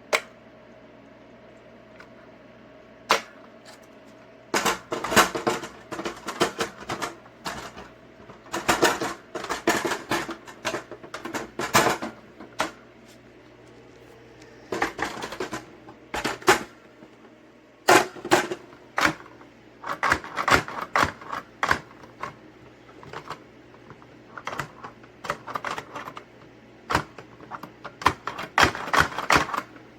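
Hard plastic parts of a Hoover Complete Performance upright vacuum being handled and fitted together: repeated clicks, knocks and rattles in irregular clusters as a broken piece is worked at, with the vacuum's motor off.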